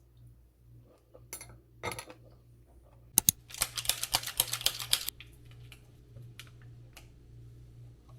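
Light scattered clicks, then two sharp clicks about three seconds in, followed by a quick run of rapid clicks lasting about two seconds, like typing on a keyboard.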